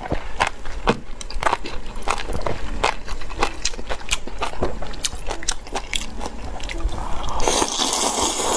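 Close-miked chewing of spicy enoki mushrooms: a steady run of short, crisp mouth clicks as the mushrooms are bitten and chewed, with a louder hissing stretch near the end.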